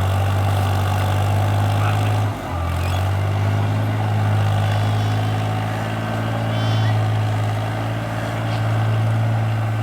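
Tractor engine running steadily while digging a field, with a brief dip in its note about two and a half seconds in.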